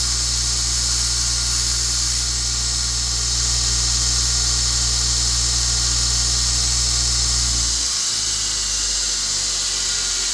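Electric grinder running as a small forged steel part is cleaned up on it, with a steady motor hum and a high squealing hiss. The motor hum cuts out near the end, leaving the steady roar of a propane forge.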